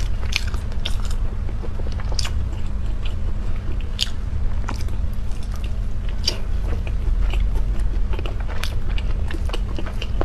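Close-miked chewing of a large filled steamed bun: many short wet clicks and smacks of the mouth, a few each second, over a low steady hum.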